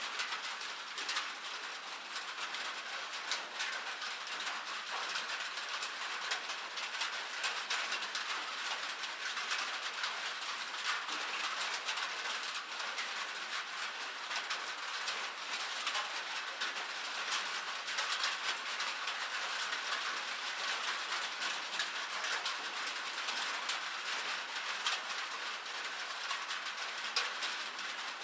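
Steady rain, many drops pattering in quick irregular ticks.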